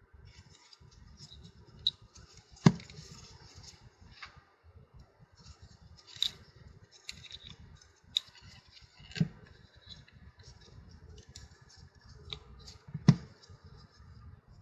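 Hand work on a small gearbox actuator unit: scattered light clicks and rustles of parts and tools, with three sharp knocks, about 3, 9 and 13 seconds in.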